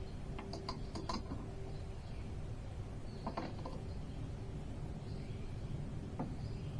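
Small hardware handled during work: three short clusters of light mechanical clicks and taps, over a steady low hum.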